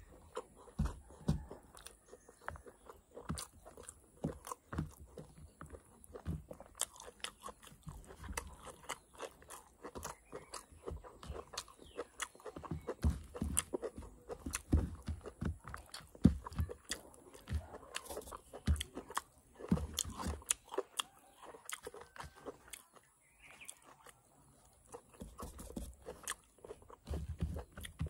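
Close-up eating sounds: a person chewing and crunching mouthfuls of mutton curry with rice and greens, with irregular wet mouth clicks and smacks, and a brief lull about 22 seconds in.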